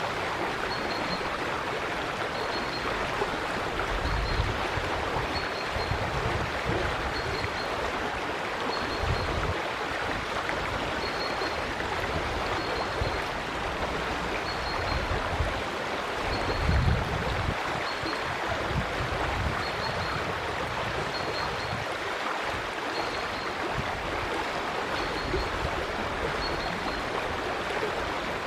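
River water running: a steady rush of flowing water with occasional low rumbles, and a faint high chirp repeating about once a second.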